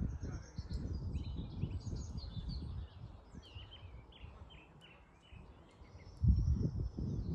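Wind buffeting the microphone in low rumbling gusts, easing off midway and gusting again about six seconds in, over small birds chirping in quick short notes, busiest in the first half.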